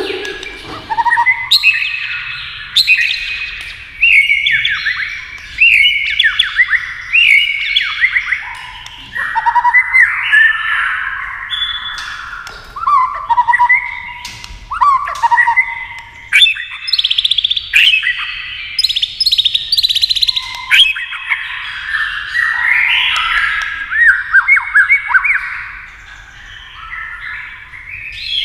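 White-rumped shama singing a continuous run of varied, rapid whistled and warbled phrases, broken by sharp clicking notes.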